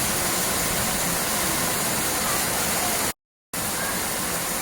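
Steady rushing noise like flowing water, with faint higher sounds over it. It drops out to complete silence for a moment about three seconds in, then carries on.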